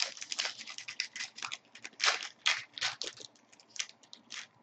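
Trading card pack wrapper being torn open and crinkled, and cards handled: a quick, irregular run of short crackling rustles.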